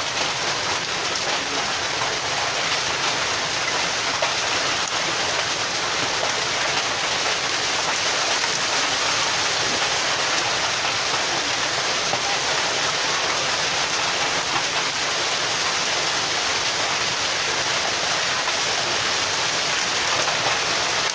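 Heavy storm downpour of rain and hail pelting down steadily, a dense, unbroken hiss with fine crackle.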